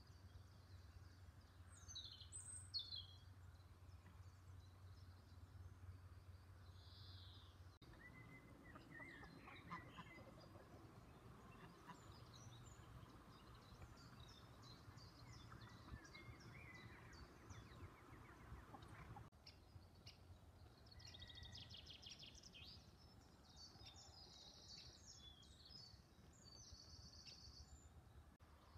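Faint outdoor ambience of small birds chirping and singing here and there over a low steady rumble. The background shifts abruptly twice, about 8 and 19 seconds in.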